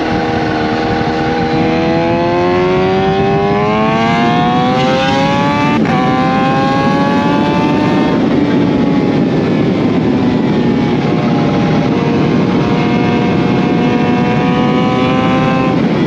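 2020 Kawasaki Z H2's supercharged inline-four, heard through an aftermarket SC Project CRT exhaust with Akrapovic headers, pulling hard with the engine note climbing for about eight seconds, with a short sharp click about six seconds in. The note then falls away as the throttle eases and rises a little again near the end, over steady wind noise.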